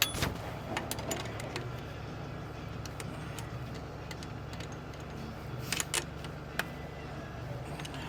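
Sharp metallic clinks and clanks of hand tools and parts being handled, a loud one right at the start and a short cluster about six seconds in, over a steady low machine hum.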